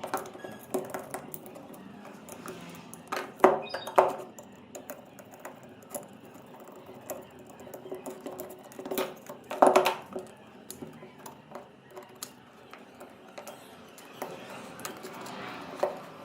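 Scattered metal clinks and knocks, like tools and parts being handled on a workbench, loudest in two clusters about three and a half seconds and nine and a half seconds in.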